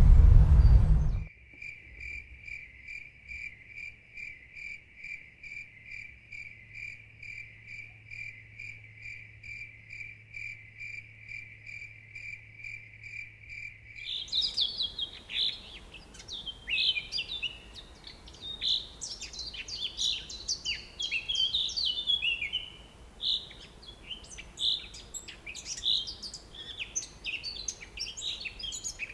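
A loud low rumble cuts off about a second in. Then a single high note with a clear ring is repeated evenly about three times a second. About halfway through this stops, and a crowd of small birds chirps and twitters busily.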